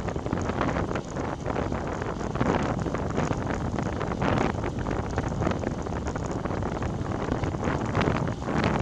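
Wind buffeting a bike-mounted camera's microphone at riding speed, a steady rush that swells in gusts several times.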